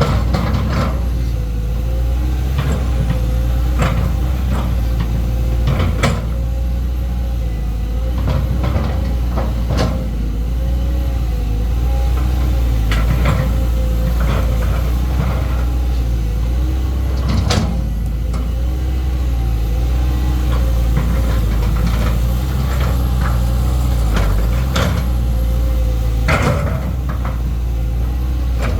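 Caterpillar 320D2 GC excavator's four-cylinder ACERT diesel engine running at a steady speed, with a few sharp clicks or knocks now and then.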